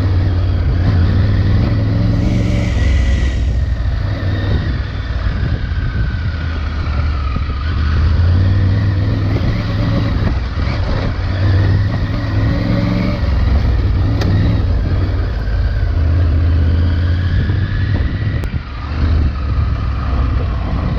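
Triumph Tiger 900 Rally Pro's three-cylinder engine with its stock exhaust, running steadily under way, the revs rising and falling several times.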